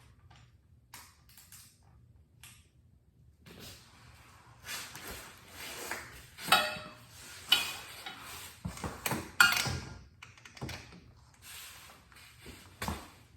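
Metal hand tools clinking and clanking: a socket, extension and torque wrench being handled and fitted, with a handful of sharp knocks that ring briefly, the loudest clustered in the middle.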